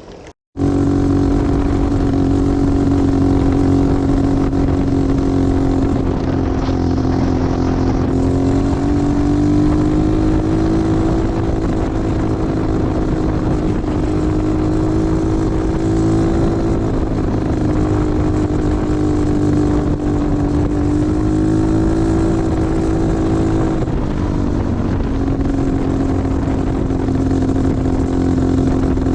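An engine running steadily at travelling speed, its hum rising and falling a little in pitch a few times. It starts abruptly after a short dropout less than a second in.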